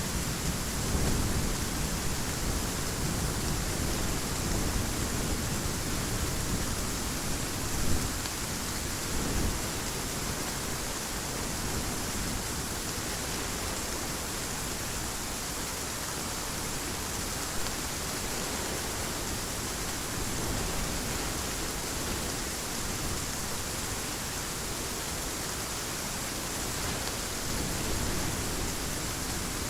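Heavy rain falling steadily as an even hiss, with thunder rumbling low through the first several seconds and then fading away.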